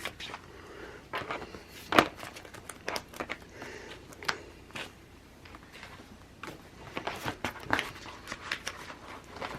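Paper sticker sheets being handled: rustling and crinkling with scattered light taps and clicks, the sharpest about two seconds in.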